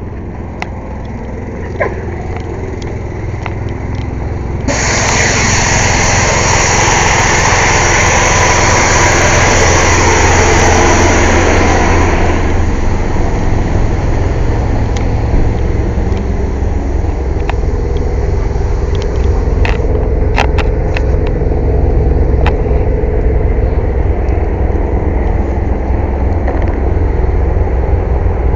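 A truck engine running steadily as the truck is moved, with a loud hiss lasting about eight seconds, starting about five seconds in, and a few sharp clicks later on.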